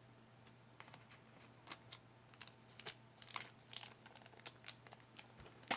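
Faint, scattered clicks and crinkles of small jewelry being handled and set down, over a low steady hum.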